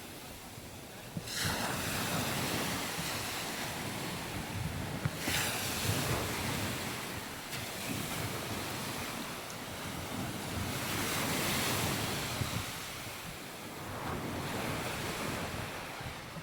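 Sea waves breaking and washing up the beach, swelling in several surges, with wind buffeting the microphone.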